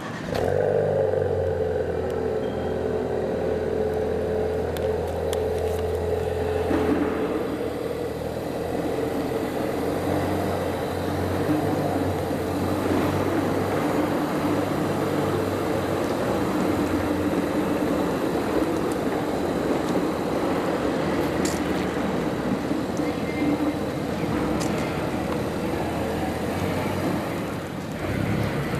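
Ford Performance car's engine and exhaust running steadily. The sound comes in abruptly just after the start, and its note changes about seven seconds in.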